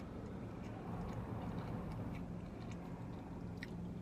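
Quiet chewing of a soft sweet pretzel, with a few faint mouth clicks, over a steady low hum in a car cabin.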